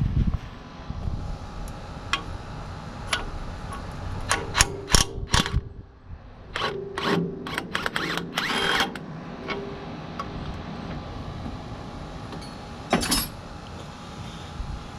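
Metal clinks and knocks of wrenches and hydraulic fittings being handled, in a few quick clusters with a short rattle in the middle, over a steady low hum.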